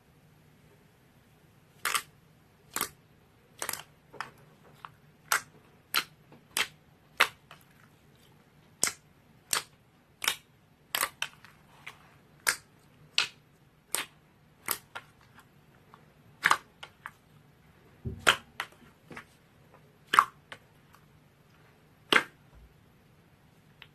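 Slime being pressed and squeezed by hand, giving sharp pops and clicks about once a second, over a faint steady hum.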